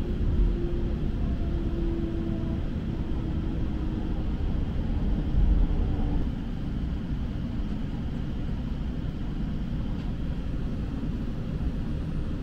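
Interior running noise of a Seibu New Red Arrow limited express train slowing into a station: a steady rumble with a low hum that steps down in pitch over the first six seconds. About six seconds in the noise drops a little and settles as the train rolls along the platform.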